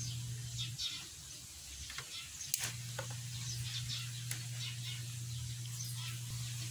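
Small birds chirping over a steady low hum. The hum drops out about a second in and comes back a couple of seconds later, and there are two faint sharp clicks.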